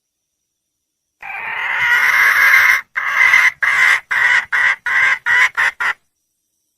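Red junglefowl hen calling for a mate. About a second in comes one long call, followed by a run of about eight shorter notes that get shorter and quicker until they stop.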